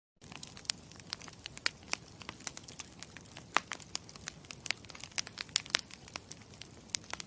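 Campfire crackling: burning wood gives off irregular sharp pops and snaps, several a second, over a steady soft hiss.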